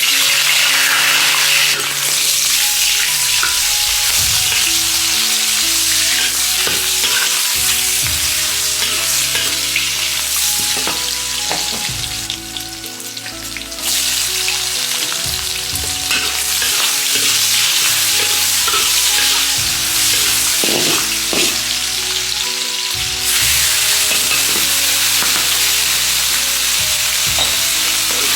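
Stir-frying in a hot wok: a steady, loud sizzle of food in oil, broken by frequent scrapes of the spatula. The sizzle eases off briefly about halfway through, then comes back up.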